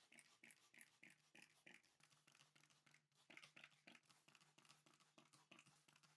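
Faint hand scrubbing strokes, about three a second, like a brush worked back and forth over a part, over a low steady hum.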